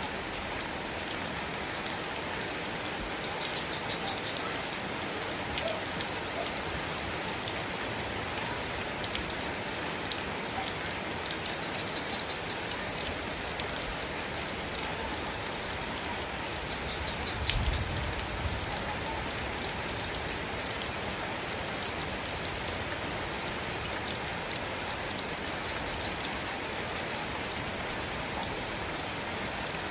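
Steady rain falling, with individual drops ticking, and a brief low thump a little over halfway through.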